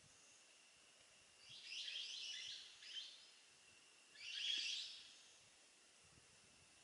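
Harsh, hissy bird calls in three bursts: a longer one about a second and a half in, a short one near three seconds, and another a little after four seconds.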